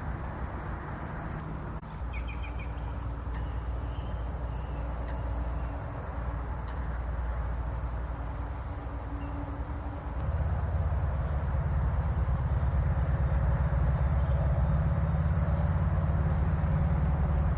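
A steady low rumble that grows louder about ten seconds in, with a few faint, high bird chirps in the first few seconds.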